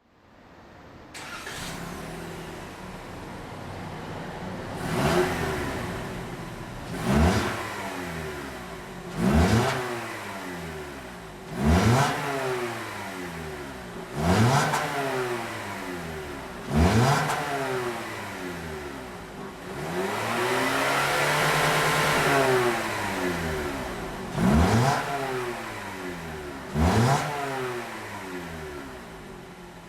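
Exhaust of a Toyota RAV4 MXAA54's 2.0-litre inline-four idling and being revved in short sharp blips, each rising and falling quickly. There are six blips about every two and a half seconds, then one longer held rev of about four seconds, then two more blips.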